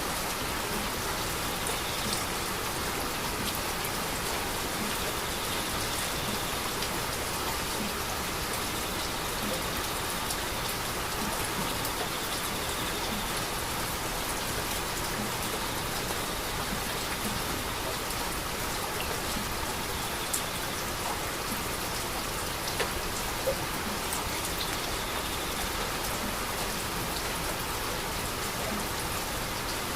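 Heavy, steady rain falling, with individual drops ticking sharply on a hard surface.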